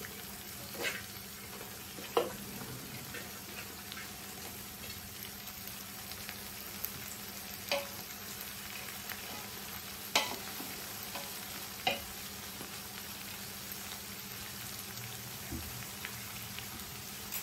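Steady sizzle of chopped mixed vegetables frying in oil with methi leaves in a large pot, with a few light, sharp knocks scattered through it.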